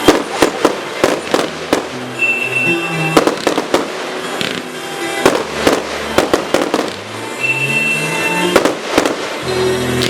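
Fireworks display: aerial shells going off in a rapid, irregular series of sharp bangs over a music soundtrack. The bangs stop shortly before the end, leaving the music alone.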